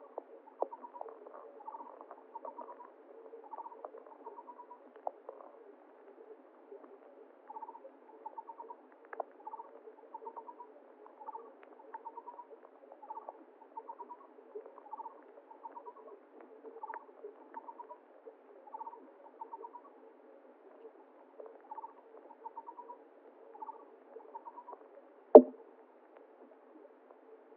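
Running-water ambience with a short, rapidly pulsed chirping call repeating about once a second, the whole sound muffled. A single sharp knock sounds near the end.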